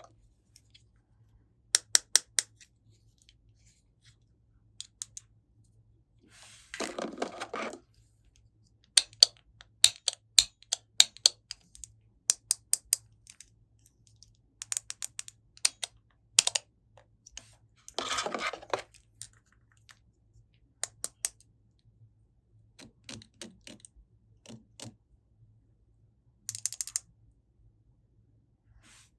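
Small plastic toy pieces being handled, set down and clicked together: scattered sharp clicks and taps in quick clusters, with two short rustles, one about seven seconds in and one about eighteen seconds in.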